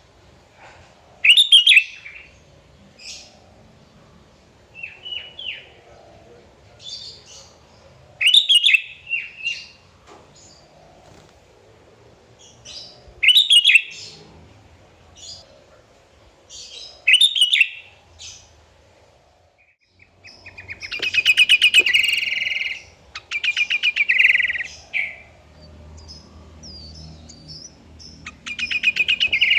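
Sooty-headed bulbul (kutilang) singing: short loud phrases every few seconds with softer calls between, then a longer run of rapid chattering about two-thirds of the way through and again near the end.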